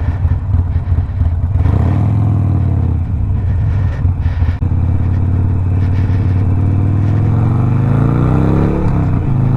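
Harley-Davidson Sportster Iron 1200's air-cooled V-twin running through a Two Brothers 2-into-1 aftermarket exhaust. It runs at low revs, grows louder a couple of seconds in, then climbs steadily in pitch as it revs up and drops sharply near the end.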